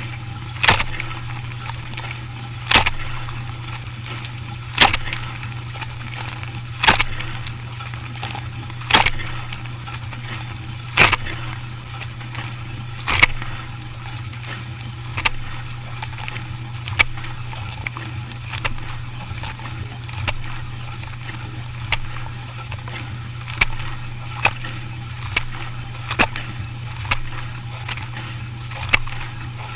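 Dishwasher running with a steady low hum. Sharp knocks come about every two seconds for the first half, then smaller, less regular clicks and knocks.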